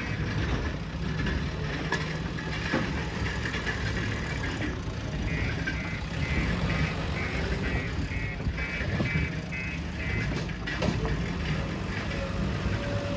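JCB 3DX backhoe loader's diesel engine running steadily, with a few sharp knocks.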